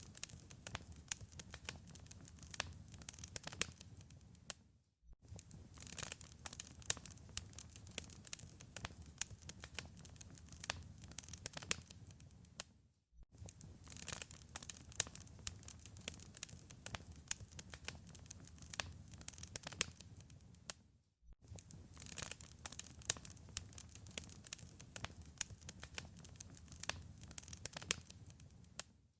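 Wood fire in a fireplace crackling, with a dense run of sharp pops over a low rumble. The sound drops out briefly about every eight seconds.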